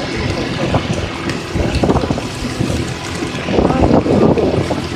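Motor scooter riding through floodwater: engine running amid splashing water, with wind buffeting the microphone.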